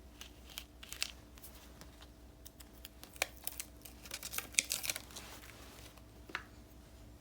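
Paper stickers being handled on a desk: scattered light taps and clicks with paper rustling, building to a dense flurry of crinkling about four to five seconds in.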